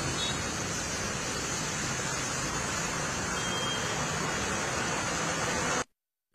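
Steady hiss of heavy rain and of traffic driving on a wet road. It cuts off abruptly near the end.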